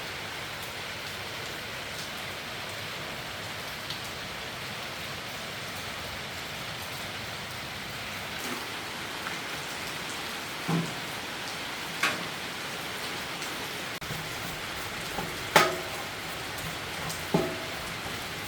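Steady hiss of heavy rain, with a few sharp clinks and knocks in the second half, the loudest about three-quarters of the way in, two of them ringing briefly.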